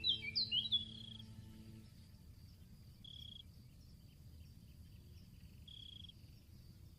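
A songbird sings a fast run of quick whistled notes that ends about a second in, over a held drone of steady tones that stops about two seconds in. After that comes faint forest ambience with a thin, high, steady insect trill and two short single bird whistles.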